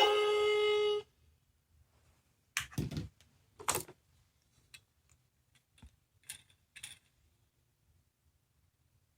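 A small electronic sound toy from a capsule machine sounds a steady buzzy electronic tone that cuts off about a second in. A few short plastic clicks and rustles follow as the toy is handled.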